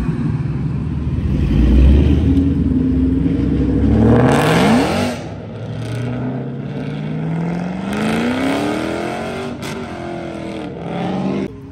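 Ford Mustang's engine running loud and low close by, then accelerating hard with a quickly rising pitch about four seconds in as it pulls away. A second, quieter engine pull rises steadily a few seconds later.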